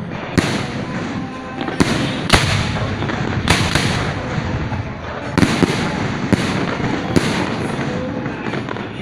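Fireworks display: shells bursting in quick succession, sharp bangs about once a second, each followed by a rolling echo over a steady rumble.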